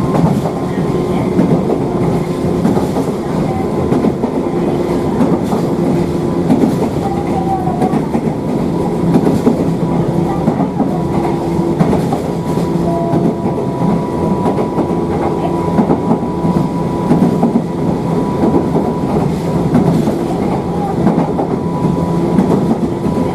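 Toyama Chiho Railway electric train running steadily along the line, a constant rumble with a steady hum made of several tones.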